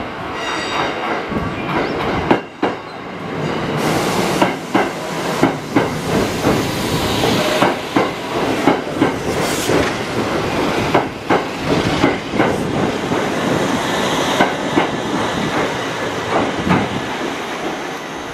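Electric train running through the station, its wheels clicking and clattering over rail joints and points in an irregular string of sharp clicks over a steady running noise.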